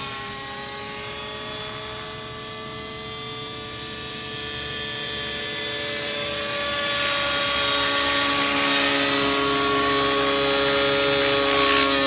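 Nitro glow engine and rotors of a T-Rex 700 RC helicopter in flight, a steady high-pitched whine that grows louder about halfway through. The engine is still running a little rich and out of tune.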